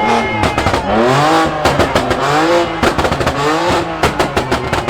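Car engine revved hard several times, its pitch rising and falling about four times. Sharp exhaust pops and crackles come as it drops off each rev.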